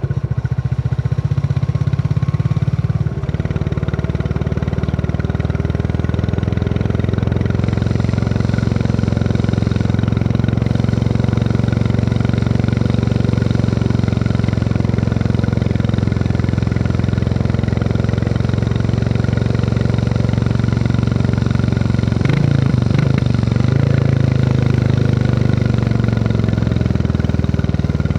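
Royal Enfield Classic 350's single-cylinder engine thumping steadily under way. The engine note briefly shifts, with a short knock, about three quarters of the way through.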